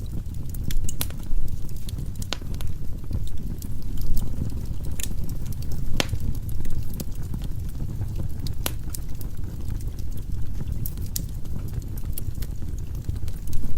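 Firewood burning in a fireplace: a steady low rumble of flames with irregular sharp crackles and pops from the logs, a couple of them louder about six and nine seconds in.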